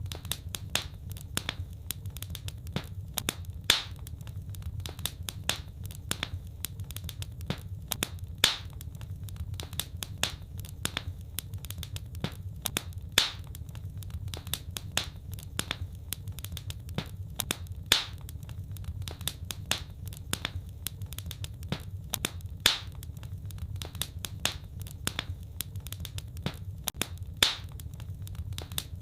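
Wood fire crackling: a dense stream of small snaps and pops over a low steady rumble, with a louder pop about every five seconds.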